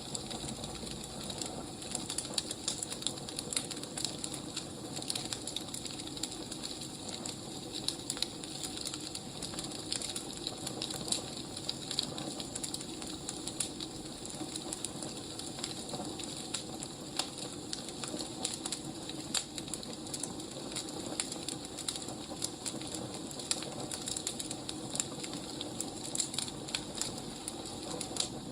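Wood fire burning, with a steady hiss and a constant, irregular crackle of small pops and snaps.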